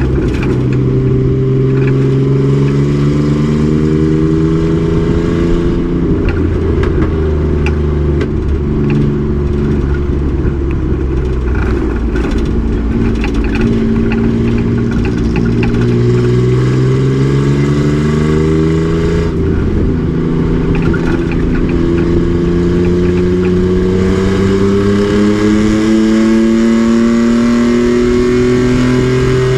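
Race truck's engine running hard on track, its pitch climbing steadily through the revs and dropping abruptly a few times, as at upshifts or lifts, before climbing again.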